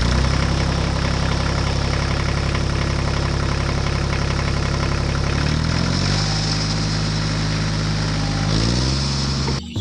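An engine running steadily at a low pitch, easing down to a lower speed about six seconds in and picking up again near the end before cutting off.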